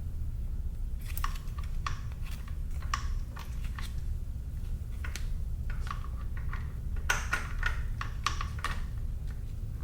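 Small metal parts and hand tools clicking and clinking against each other in irregular taps, with a quick run of clinks about seven to nine seconds in, over a steady low hum.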